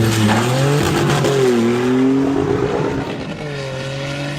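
Car engine running at high revs, its pitch shifting up and down a few times.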